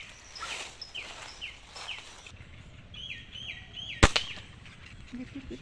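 Small birds chirping in a run of short falling chirps, then one sharp snap about four seconds in: a hunting slingshot being shot.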